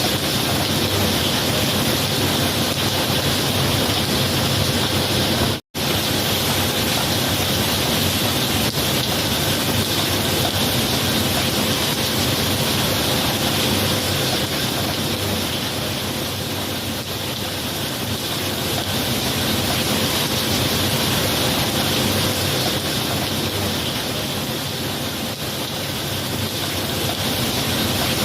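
Steady heavy rain, an even hiss with no thunder heard. It cuts out completely for a split second about six seconds in.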